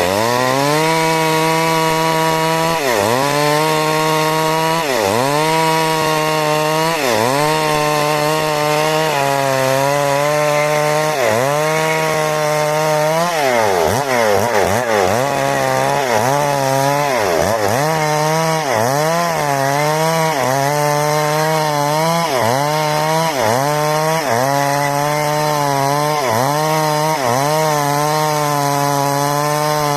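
A '382' two-stroke chainsaw running hard while cutting wood. Its engine note drops each time the chain bites into the cut and climbs back as it frees, over and over every second or two, with deeper drops about halfway through.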